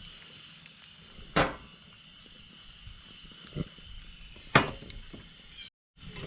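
Cooking utensil knocking sharply against a frying pan twice, with a softer knock between, while eggs are being fried.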